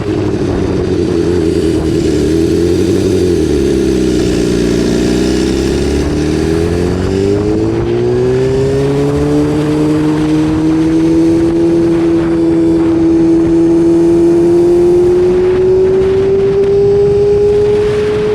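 BMW S1000RR's inline-four engine running under way. Its pitch dips over the first few seconds as the bike slows, then climbs steadily through the rest as it accelerates.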